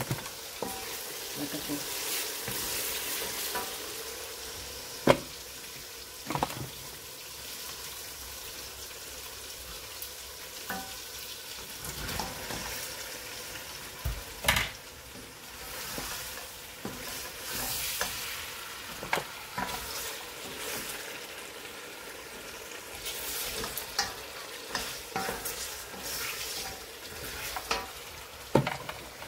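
Chicken feet and masala sizzling as they fry in a stainless steel pot on a gas burner, stirred with a wooden spoon that knocks against the pot now and then. The sharpest knocks come about five seconds in and near the middle.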